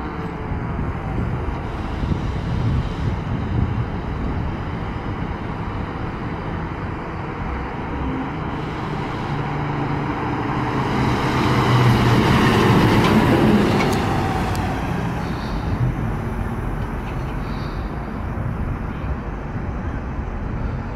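Steady road traffic and vehicle engine noise, swelling into a loud heavy vehicle passing about twelve seconds in, then settling back.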